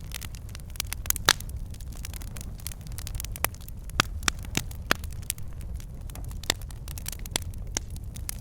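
Wood fire in a fireplace crackling and popping, with irregular sharp pops over a steady low rumble of the flames.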